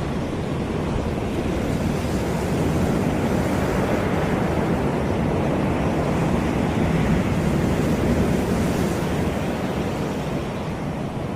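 Caribbean beach surf: waves washing on the shore in a steady hiss that swells and eases slowly, building a couple of seconds in and easing near the end, with some wind on the microphone.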